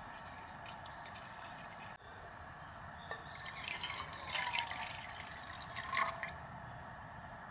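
Liquid being poured and dripping, a splashy burst that starts about three seconds in and stops about six seconds in, over a steady faint hiss.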